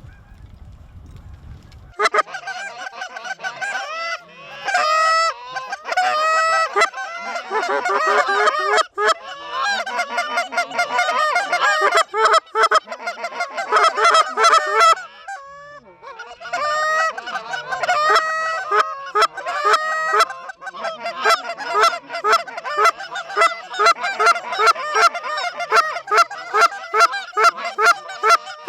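A chorus of many geese honking and clucking in overlapping calls. It starts abruptly about two seconds in, eases briefly midway, and turns into fast, rhythmic clucking near the end.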